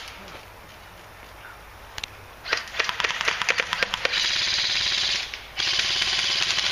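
Airsoft gunfire: a single shot about two seconds in, then a rapid string of shots, then two long full-auto bursts with a brief break between them.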